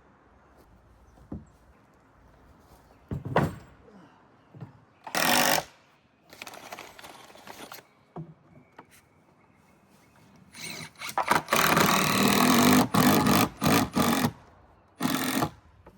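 A handheld power tool worked on lumber in several short runs, then one longer run of about four seconds near the end.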